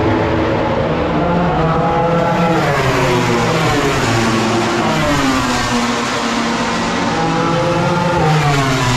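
MotoGP racing motorcycle engines running at high revs. Their pitch sweeps down and back up about three times as the bikes drop and climb through the revs.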